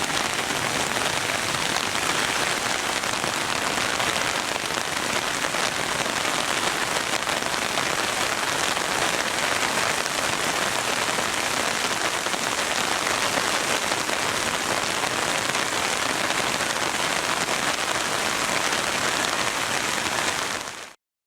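Heavy rain falling steadily on pavement, a downpour strong enough to overwhelm the storm drains. It cuts off suddenly near the end.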